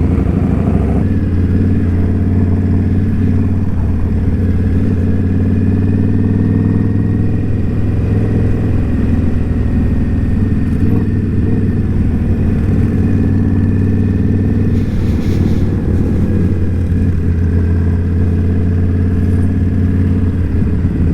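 Indian Scout Bobber's V-twin engine running at a steady cruise, a low, even drone that barely changes.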